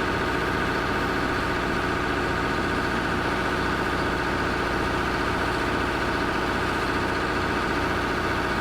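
A heavy vehicle's engine running at a steady, even speed, with no change in pitch or load.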